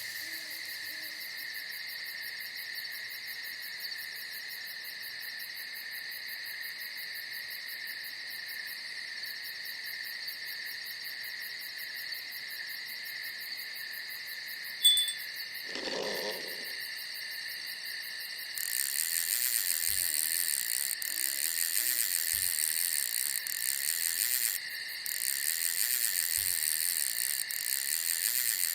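Night insects, crickets among them, chirring steadily in several high-pitched bands, with a louder, faster-pulsing high chirp joining about two-thirds of the way through. About halfway in there is a sharp click, followed by a short, lower call lasting under a second.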